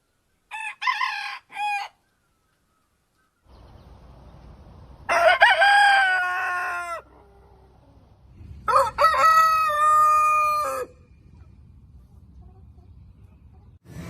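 Rooster crowing twice, each crow about two seconds long, after a few short calls near the start.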